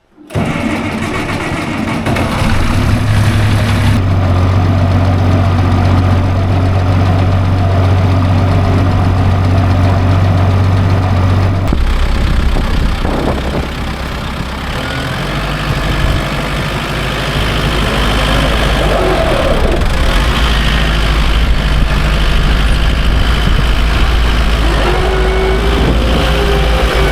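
Tractor engine running steadily; its note drops about twelve seconds in and settles lower after that.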